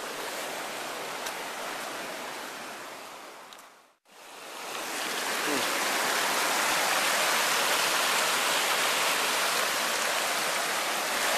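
Rain-swollen stream rushing steadily over its bed; the sound fades out about four seconds in and comes back louder.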